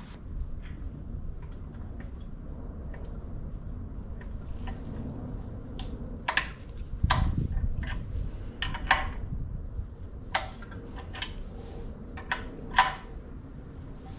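Irregular sharp metallic clicks and clinks of hand tools and engine timing parts being handled while the camshafts are set into position, over a steady low hum.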